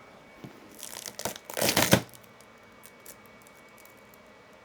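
Packaging being ripped off by hand: a few short tearing rasps about a second in, the last and loudest just before two seconds.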